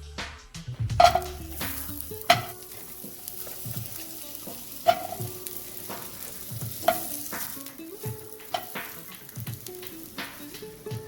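Food sizzling in a frying pan, with a utensil knocking against the pan every second or two as breakfast is stirred.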